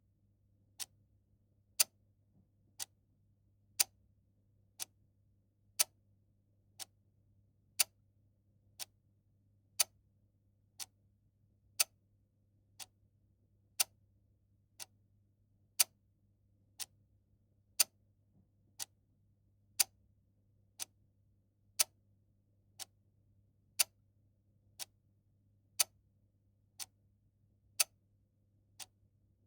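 Clock ticking steadily about once a second, with strokes that mostly alternate louder and softer like a tick-tock, over a faint low hum.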